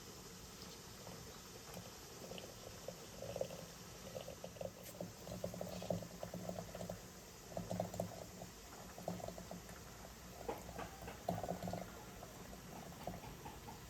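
Liquid bubbling, in irregular bursts.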